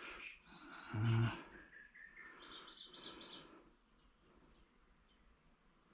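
Birds chirping and calling, with a quick trilled phrase near the middle and a short low-pitched sound about a second in.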